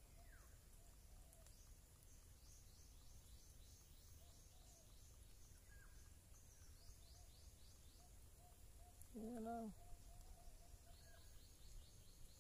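Faint outdoor ambience of birds chirping in quick high trills, with one brief low pitched call about nine seconds in.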